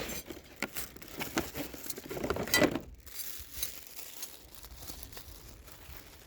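Packaging rustling and crinkling as it is rummaged through by hand to look for mounting hardware, with a run of small clicks and crackles that is busiest in the first three seconds, then a fainter rustle.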